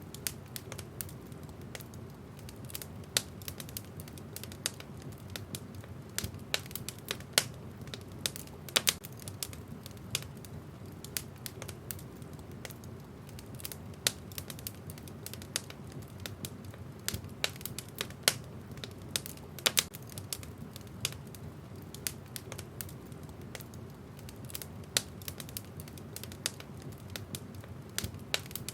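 Wood fire crackling in a fireplace: irregular sharp pops and snaps of burning logs, several a second, over a low steady rush of the flames.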